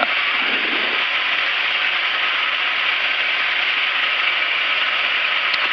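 Steady, even hiss of a Cessna Citation CJ4 cockpit in flight, picked up through the thin, narrow-band audio of the intercom and headset feed.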